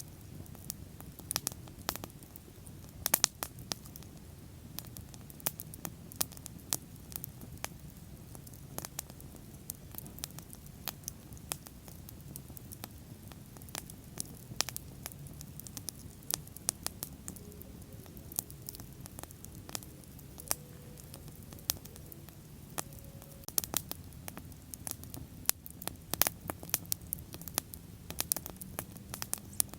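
Wood bonfire burning: a steady low rush of flames with irregular sharp crackles and pops, coming thicker near the end.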